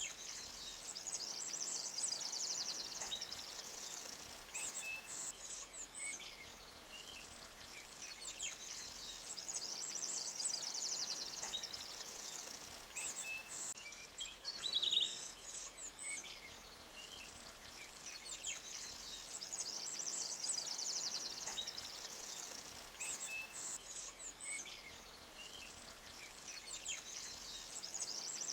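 Forest birds chirping, over a high, fast trill that swells and fades about every ten seconds, with one louder call about halfway through.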